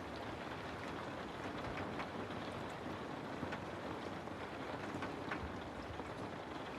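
Steady rainfall, a constant hiss with many small drop ticks scattered through it.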